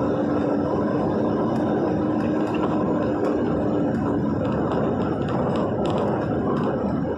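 A vehicle driving in heavy rain: steady road and engine noise, with scattered light ticks and a steady hum for about the first four seconds.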